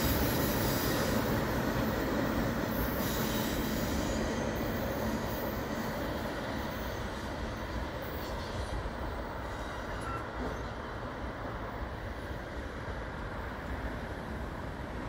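Rear cars of a long intermodal freight train rolling on the rails around a curve, the wheel and car noise steadily fading as the train moves away.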